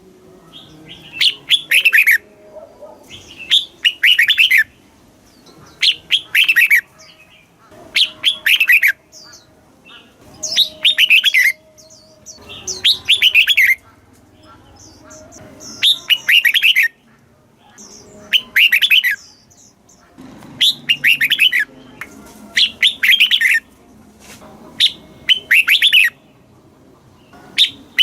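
Red-whiskered bulbul singing: about a dozen short, clear phrases of quick notes, one roughly every two seconds.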